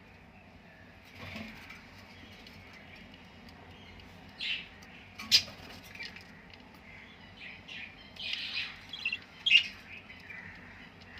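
Budgerigar chicks chirping in short, scattered calls, a few of them sharper and louder, over a faint steady hum.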